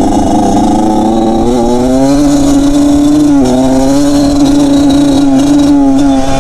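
Dirt bike engine running close by, its pitch climbing as the throttle opens about one and a half seconds in, dropping sharply for a moment past three seconds, then holding steady.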